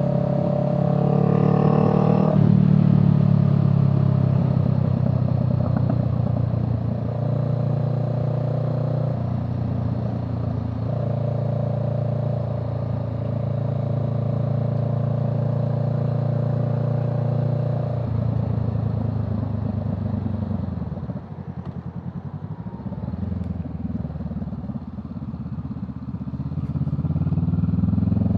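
A vehicle's engine being driven. It revs up over the first two seconds and holds a steady pitch. About eighteen seconds in it drops to a lower, uneven note, then revs up again near the end.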